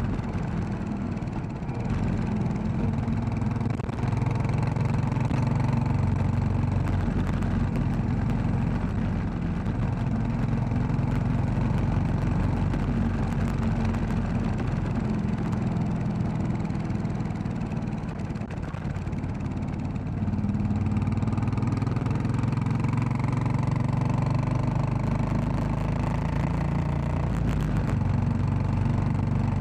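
Royal Enfield Classic 500's single-cylinder engine running under way, dropping off for a few seconds about two-thirds through and then pulling again.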